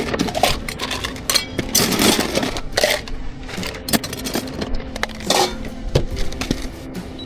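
Barista work sounds: a run of sharp clicks and clinks of cups and equipment, mixed with short hissing bursts, over a faint steady hum.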